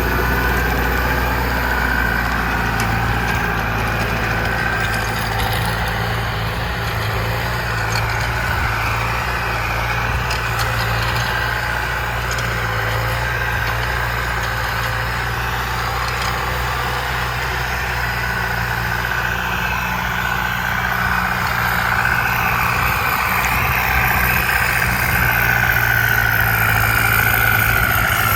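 Tractor engine running steadily, with a high whine over its low drone; it grows a little louder over the last few seconds.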